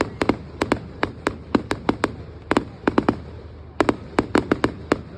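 Fireworks display: a rapid, irregular series of sharp bangs, about four a second, coming in quick clusters with short gaps between them.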